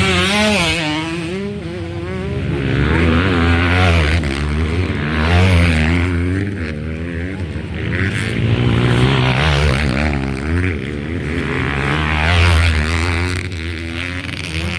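Motocross bike engines revving up and falling back again and again, the sound swelling and fading several times as bikes race around the track.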